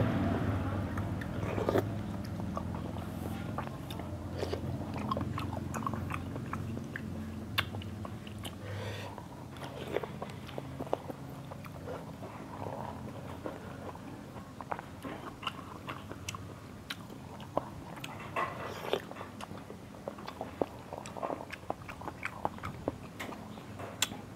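Close-up chewing and mouth sounds of people eating a bowl of seblak, with noodles, meatballs and egg. Many small, sharp clicks are scattered irregularly throughout.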